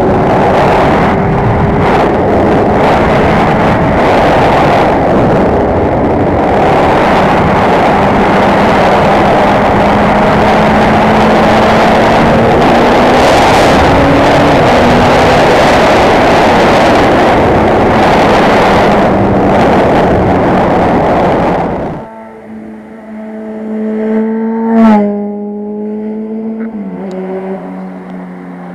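Loud, even rushing noise from a camera fault masks a four-cylinder motorcycle engine running beneath it. About 22 seconds in the noise cuts off suddenly, leaving the engine running clearly, with a short, sharp rise in revs a few seconds later before it settles back.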